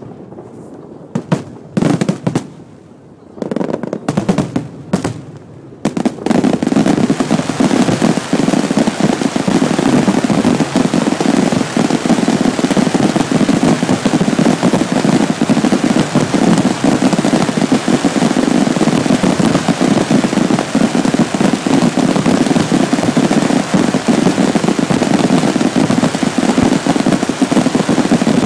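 Fireworks and firecrackers going off: separate bangs and cracks at first, then from about six seconds in a dense, unbroken crackle of explosions.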